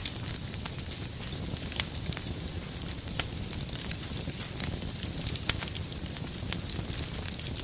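Wood fire in a fireplace burning steadily, with a low rumble and hiss and irregular sharp crackles and pops from the burning logs, the loudest pops about three seconds in and at about five and a half seconds.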